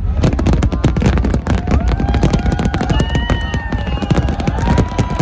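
Dense aerial fireworks barrage: rapid, overlapping bangs and crackling over a continuous low rumble. From about two seconds in, high tones that rise and fall sound over the bangs.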